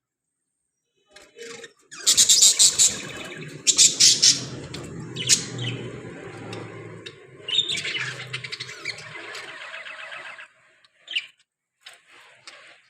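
Budgerigars chirping and chattering in dense, sharp calls, loudest a couple of seconds in, thinning to scattered chirps near the end.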